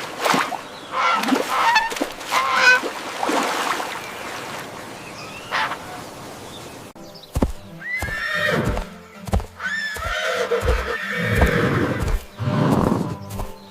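Horse whinnying: a bout of neighs in the first few seconds and another, longer bout in the second half, with a few short low thumps mixed in around the middle.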